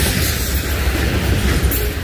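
Freight train rolling past: steady steel-wheel-on-rail noise with a heavy low rumble and a sharp clack near the end.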